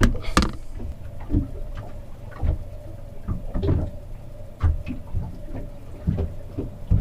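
Irregular small knocks, clicks and rustles of kitchen handling, cookware and containers being moved while butter is added to chopped garlic, over a steady faint hum.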